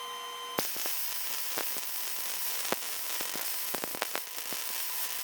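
Lincoln 110-volt MIG welder arc crackling and sizzling, starting about half a second in: a steady hiss broken by irregular sharp pops and snaps.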